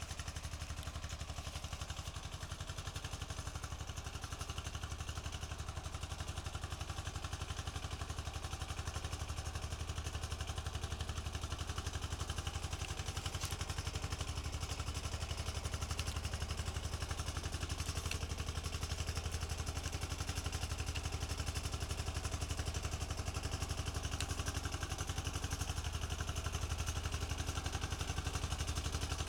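Yanmar tractor's diesel engine running at a steady, even pace as the tractor drives along.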